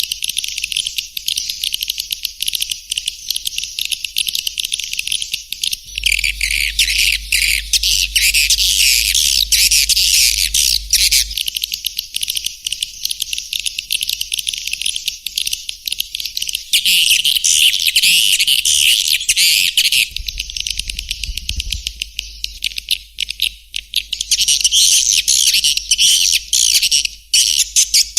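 Swiftlets twittering in a dense, high chatter of many overlapping chirps and clicks, a swiftlet lure call recording of the kind played to draw the birds into a nesting house. The chatter swells louder for a few seconds at a time, about six seconds in, again near seventeen seconds, and near the end.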